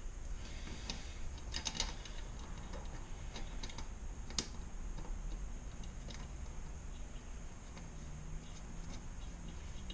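Scattered light clicks and taps of small metal parts being handled and fitted while a motor is put back together, with a small cluster of clicks about a second and a half in and one sharper click a little past four seconds.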